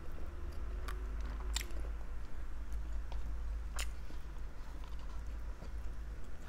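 A person chewing grilled barbecue meat, with a few short, wet mouth clicks, over a steady low hum.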